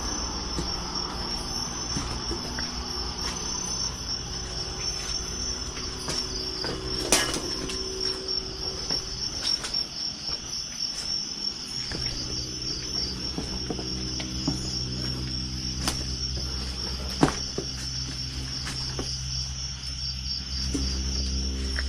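Night insects chirring in a steady, fast-pulsing high chorus, with a low steady hum underneath and a few sharp clicks, one about seven seconds in and two more near sixteen and seventeen seconds.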